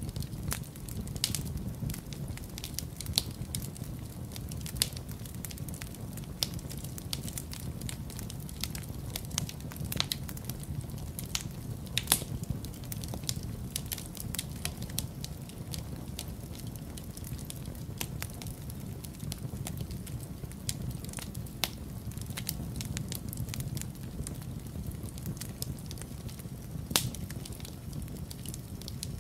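Wood fire in a fireplace crackling, with irregular snaps and an occasional louder pop, over a steady low rumble.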